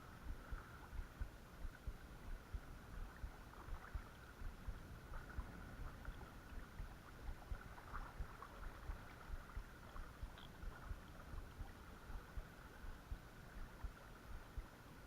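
Steady rush of creek water running over rocks, with frequent soft low bumps on the microphone.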